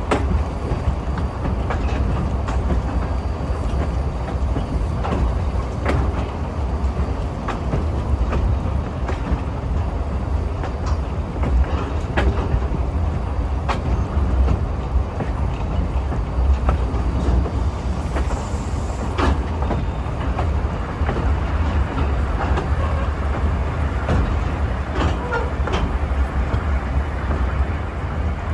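Steady low rumble of a train rolling along the track, heard on the ride, with scattered sharp clicks and knocks from the wheels and running gear.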